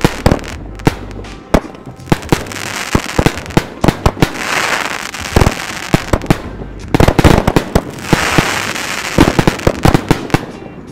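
Kush Case 2-inch shell cake fireworks firing: a string of sharp booms as the shells launch and break, coming thick and fast around seven seconds in and again near the end, with hissing stretches between.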